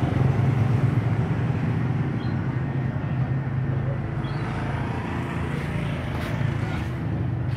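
Steady low engine or traffic rumble, with a few faint, short high chirps.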